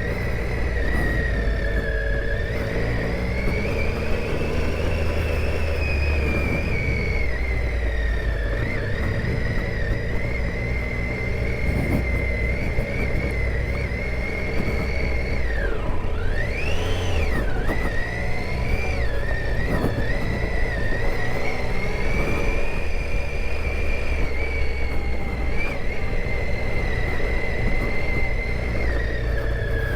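Triumph Tiger 800 XCa's three-cylinder engine running on a dirt trail, its pitch rising and falling with the throttle, with a sharp drop and climb in revs about halfway through, over a low rumble.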